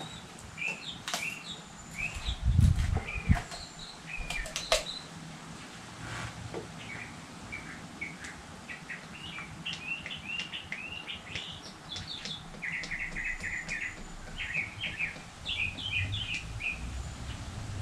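Small birds chirping again and again in short calls, with a quick trill near the middle. A couple of low thumps come about two and a half to three and a half seconds in.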